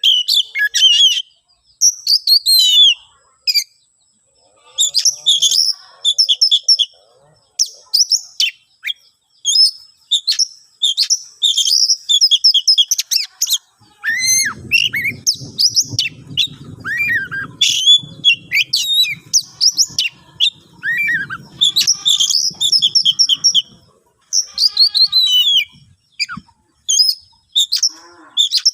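Oriental magpie-robin (kacer) singing a loud, fast run of varied whistles and chattering phrases with short pauses: the agitated, territorial song of a bird challenging a rival. A low rough buzz runs underneath through the middle.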